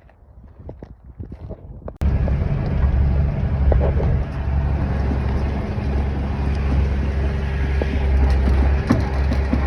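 A motor vehicle's engine running steadily close by, a loud low rumble that cuts in abruptly about two seconds in.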